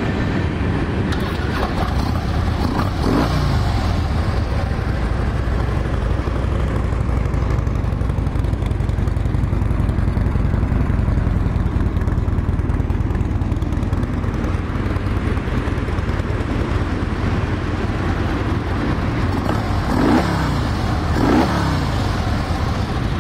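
2011 Harley-Davidson Road King Classic's V-twin engine running through its stock exhaust, blipped once about three seconds in and twice near the end, the revs falling back each time. A passing train rumbles steadily underneath.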